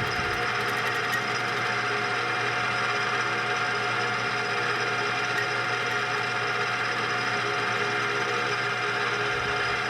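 Small metal lathe running steadily with a constant whine while turning down a shaft diameter.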